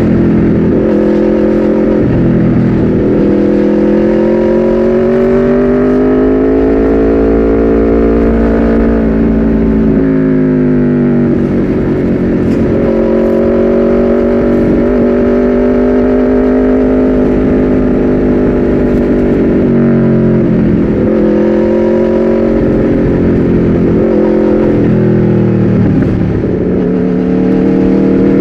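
Aprilia RSV4's V4 engine through an Austin Racing GP2R exhaust under way. The pitch climbs over several seconds and drops sharply at each upshift, several times, with steadier cruising stretches between.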